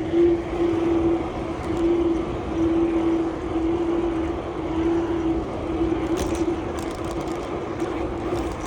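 Steady road and wind noise from a bicycle ride through city streets, with a steady mid-pitched hum throughout and a few light clicks near the end.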